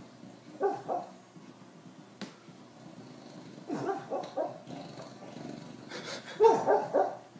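A dog barking in short groups: two barks about a second in, a few more around four seconds, and a louder run of barks near the end.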